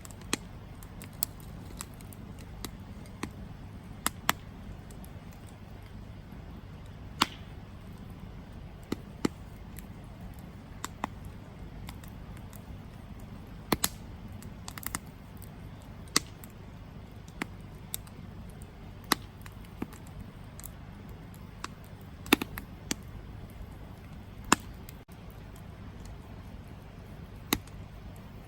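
Campfire burning: wood crackling and popping in sharp, irregular snaps over a steady low rumble of the flames.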